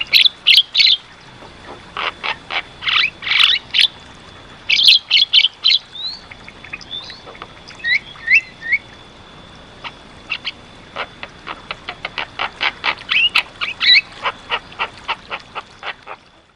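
Javan myna (jalak kebo) singing a loud, varied song of rapid bursts of sharp clicking chatter and short whistled slurs, over a faint steady high tone. The song cuts off just before the end.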